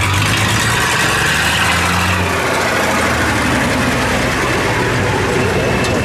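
Monster truck engine running steadily with a deep low note, swelling briefly a second or two in.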